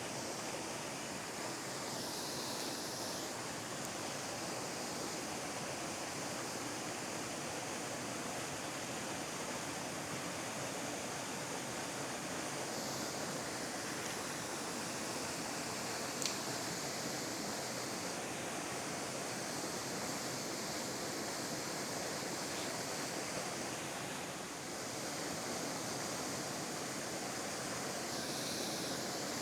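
Steady rushing hiss of flowing river water, even throughout, with a higher hiss swelling a few times and one faint tick about sixteen seconds in.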